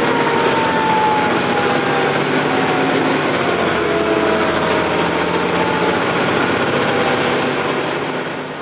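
Fire engine running on an emergency response, a steady engine and road noise with tones that slowly fall in pitch, fading away near the end.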